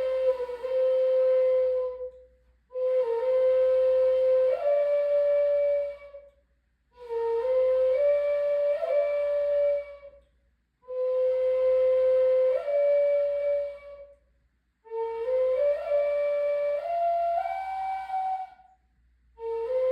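A flute playing a slow melody in breath-long phrases of three to four seconds, with a short pause between each. Each phrase holds a few notes and steps between them, mostly upward, and one phrase near the end climbs note by note.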